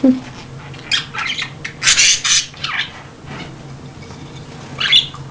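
Baby budgerigars giving short, scratchy squawking calls: a cluster of them from about one to three seconds in, and another near the end.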